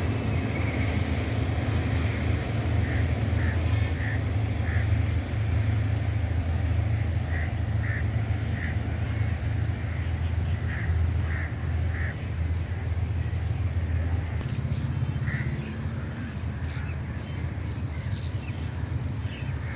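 Short bird calls repeating irregularly, several in quick succession, over a steady low rumble.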